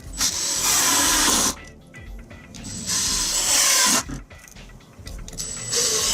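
Handheld power driver run in three bursts of about a second each, with short pauses between, as when driving screws into the pine workbench frame.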